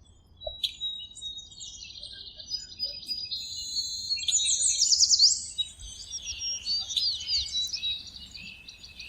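Songbirds chirping and singing in a dense chorus of high, quick notes, loudest about halfway through.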